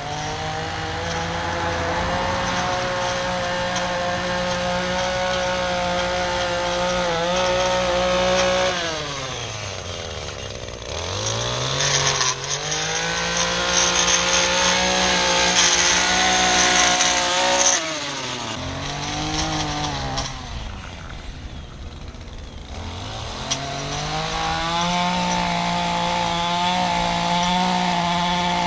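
Small two-stroke engine of an ECHO PAS2620 multi-tool power head (string trimmer or edger) running at full throttle with a high, buzzing note. The throttle is let off to idle about a third of the way in, then it revs back up. It drops off again past the middle with a short blip before returning to full throttle near the end.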